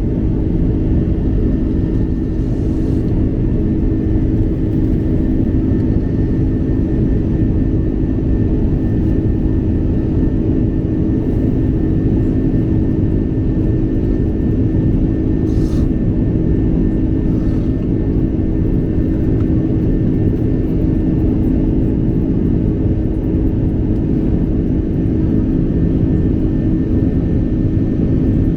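Steady engine and airflow drone inside the cabin of an Airbus A330-200 airliner in flight, a constant low roar with a faint steady hum.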